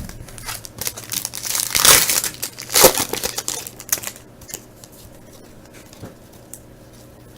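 2000 Bowman football card pack wrapper crinkling and tearing as the pack is opened, with louder rips about two and three seconds in. After about four seconds it drops to a low level with a few faint ticks.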